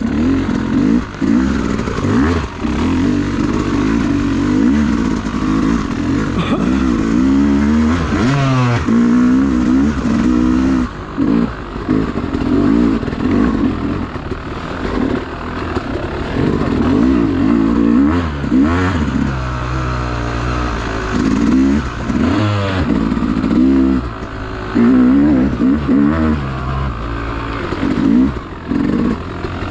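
Dirt bike engine revving up and down again and again, its pitch rising and falling in short surges with brief drops in between.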